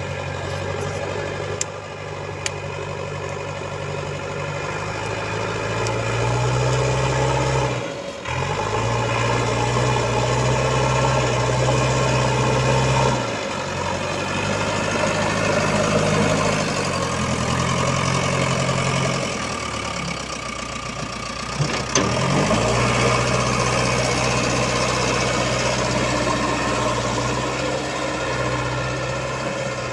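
Heavy diesel engine of earth-moving machinery running and revving up and down in repeated cycles, working under load. The revs drop sharply about 8 seconds in, and there is a sharp knock about 22 seconds in.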